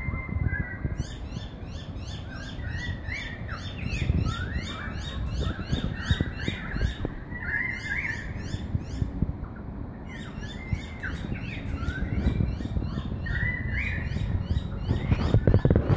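Birdsong from more than one bird: runs of thin, high chirps repeating several times a second, over lower whistled calls that slide up and down. A steady low rumble lies underneath.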